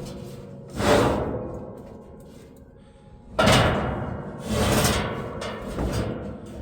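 Three sudden heavy booms, about a second, three and a half and four and a half seconds in, each fading out slowly over a second or more.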